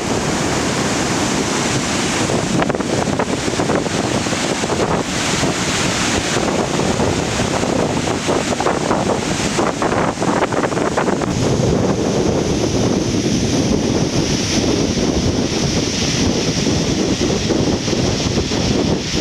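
Reykjafoss waterfall rushing steadily, with wind buffeting the microphone. About eleven seconds in the low wind rumble grows heavier while the hiss higher up eases a little.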